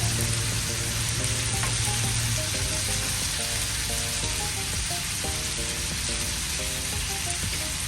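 Chopped vegetables sizzling steadily as they sauté in hot oil in a pot, with light background music.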